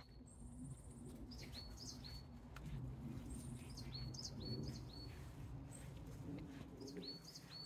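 Faint songbird calls: a short high trill three times and a string of quick, sharp chirps that dip in pitch, over a low steady background rumble.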